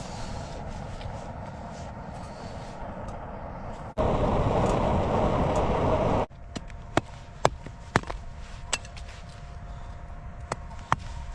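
A steady hum and rush, with a louder burst of noise for about two seconds in the middle, then a run of sharp wooden knocks, a few a second apart, typical of firewood being chopped.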